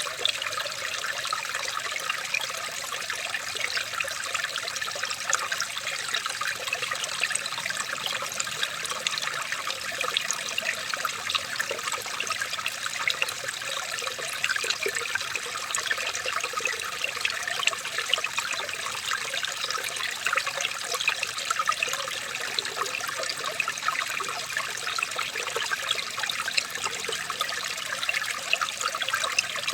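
Flowing water trickling steadily, with a continuous spatter of small splashes, as of a small natural stream.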